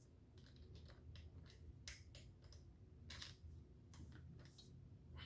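Faint, scattered clicks and light taps of hand tools and small parts being handled, a couple of them a little louder about two and three seconds in, over a low steady hum.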